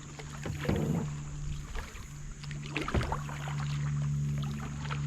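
Kayak paddling: the paddle dipping and splashing water, with two dull knocks about a second in and again near three seconds. A steady low hum runs underneath.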